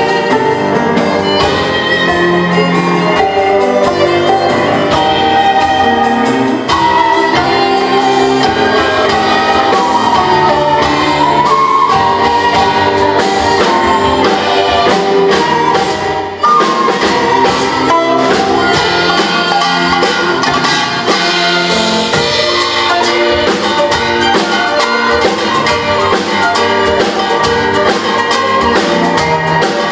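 Fusion gugak ensemble playing instrumental music live, Korean traditional instruments together with Western strings and piano over a steady percussion beat.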